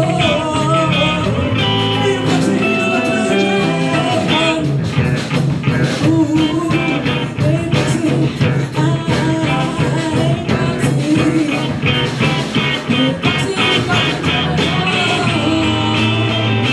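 A rock band playing live: electric guitar, bass and drums, with a steady beat. There may be singing, but the recogniser wrote no words.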